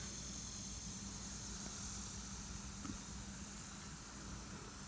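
Faint, steady outdoor background: an even, high drone of insects with a low hum beneath it.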